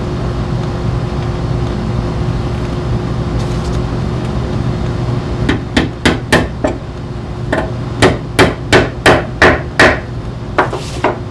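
A hammer driving upholstery tacks into a wooden chair frame to fasten new seat webbing strips. The strikes come in a quick, irregular run of about fifteen sharp blows, each with a short metallic ring, starting about halfway through. Before they start there is only a steady background hum.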